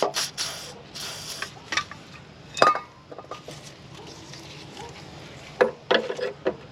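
Aerosol penetrating fluid sprayed in two short hissing blasts onto rusted metal, followed by a sharp ringing metallic clink from a tool and a few lighter knocks near the end.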